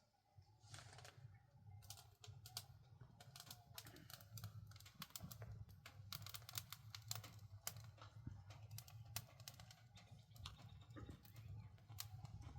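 Faint, irregular rapid clicks and taps over a steady low hum.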